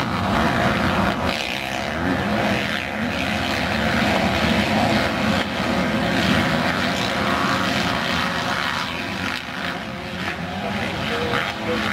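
Motocross bike engines revving as the bikes race around the track, the level rising and falling with no break.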